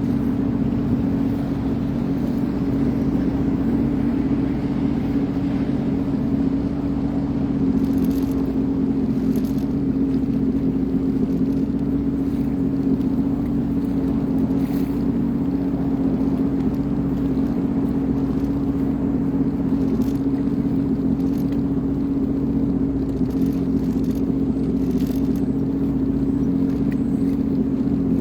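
Sea-Doo Fish Pro personal watercraft engine running at a steady speed, an even, unchanging hum.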